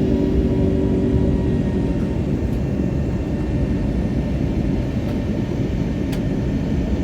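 Airliner cabin noise during climb-out after takeoff: the jet engines and airflow make a steady low rumble. A set of humming tones in it fades out about two seconds in.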